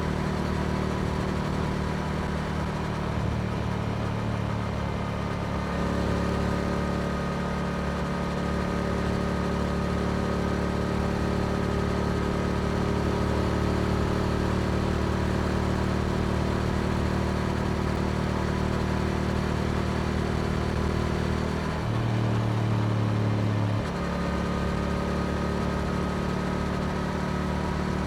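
Yamaha R7's 689 cc parallel-twin engine running through an Akrapovic exhaust at steady cruising revs. Its note steps to a different pitch about six seconds in, and again twice near the end.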